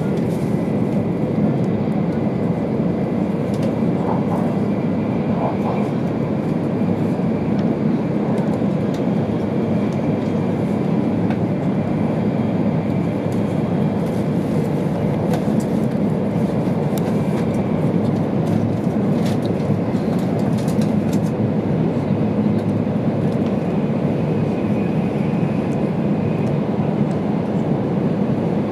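Steady running noise inside the passenger cabin of an E2 series Shinkansen travelling at speed: a constant low rumble with a few faint ticks about two thirds of the way through.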